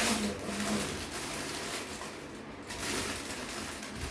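Packaging being handled during an unboxing: an uneven rustling that swells and fades, dipping briefly about two thirds of the way through, over a faint steady hum.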